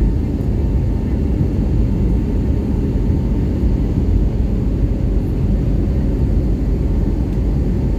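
Steady low rumble of an Airbus A320 in flight, its engines and airflow heard from inside the passenger cabin, with a faint steady whine.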